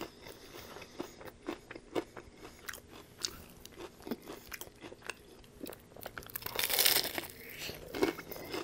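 Close-up mouth sounds of a person chewing a crispy fried-chicken chalupa shell, with many small, sharp crunches. One louder, longer crunchy stretch comes about two-thirds of the way in.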